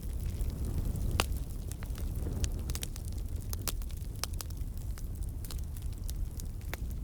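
Campfire burning, wood crackling and popping in many sharp, irregular snaps over a low steady rumble of flames, with one louder pop about a second in.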